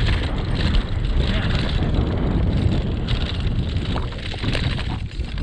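Wind buffeting an action camera's microphone during a bike ride in strong wind: a loud, steady low rumble, with a few short clicks and rattles from the bike.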